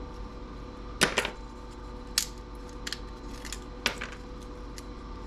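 A series of sharp clicks and clinks, about six in all with the loudest a double click about a second in, from small metal and plastic parts of a dismantled CRT TV being handled. A faint steady hum runs underneath.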